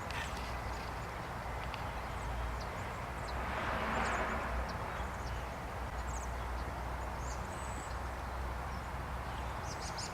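Outdoor ambience: a steady hiss that swells briefly about four seconds in, with scattered faint high chirps and ticks.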